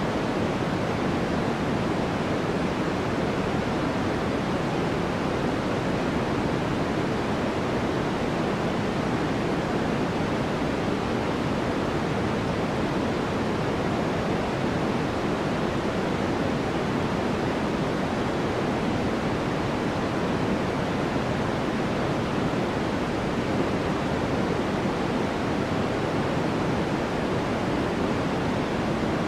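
Steady white-noise background track: an even, unchanging hiss, fuller in the low-middle range, with no separate events.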